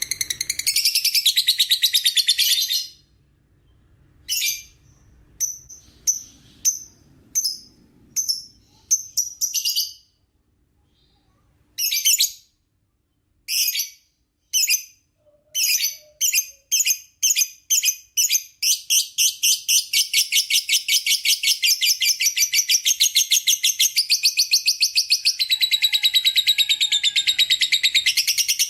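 Lovebird ngekek: a high-pitched, rapid chattering trill. A burst of chatter at the start breaks off into separate chirps, which after a short pause come faster and faster until they run together into one unbroken trill through the second half.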